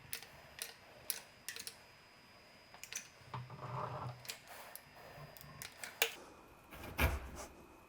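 Manual sausage caulking gun clicking as its trigger is squeezed to push out sealant, a string of irregular sharp clicks, with a heavier knock about seven seconds in.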